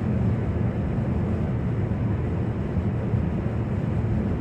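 Steady road and engine noise inside a moving car's cabin: an even low rumble with no sharp events.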